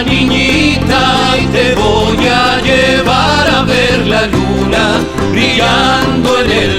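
Andean folk band playing an instrumental passage: a melodic lead line over a steady, rhythmic bass and strummed accompaniment.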